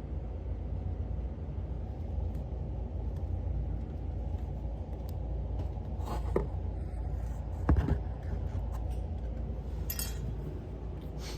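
Steady low room hum with a few light clicks and knocks, the loudest about two-thirds of the way through.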